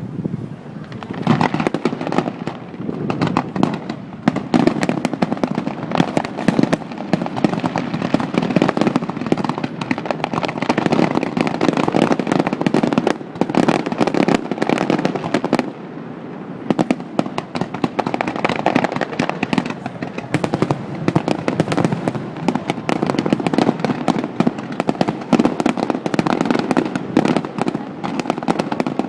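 Fireworks display: a dense, continuous barrage of bangs and crackling, with a brief lull about halfway through, recorded on a cell phone.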